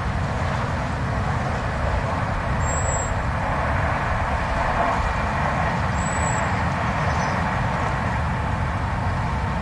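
Blizzard wind blowing steadily, a deep rumble under a rushing hiss, with two brief faint high whistles about three and six seconds in.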